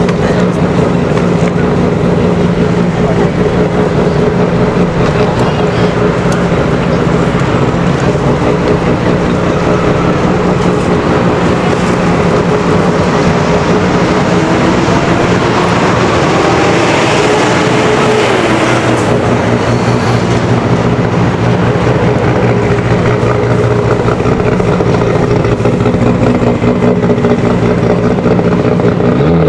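A motor vehicle's engine running with a steady hum, its pitch dipping briefly about two-thirds of the way through.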